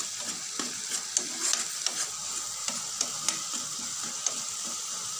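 Onion, tomato and ginger-garlic paste sizzling in hot oil in a nonstick pan while a spoon stirs it, scraping and knocking against the pan every second or so. The masala is being fried until the raw smell of the ginger-garlic goes.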